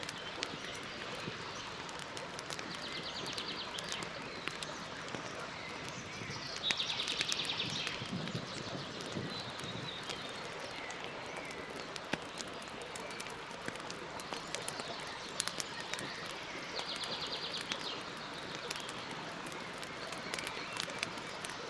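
Campfire crackling with a steady hiss and frequent sharp pops. A bird gives a short rapid trill three times, loudest about seven seconds in.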